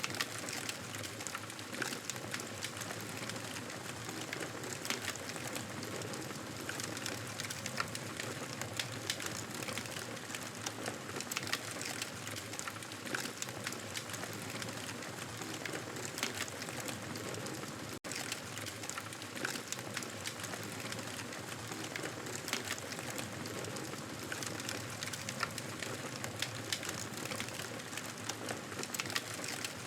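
Wood fire crackling in a fireplace: a steady hiss dotted with frequent small pops and snaps. The sound cuts out for an instant about 18 seconds in.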